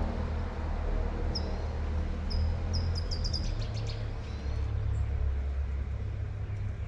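A songbird gives a few short high chirps about a second in, speeding up into a quick trill around three seconds. Under it run the steady low rumble of street traffic and the even hiss of light rain.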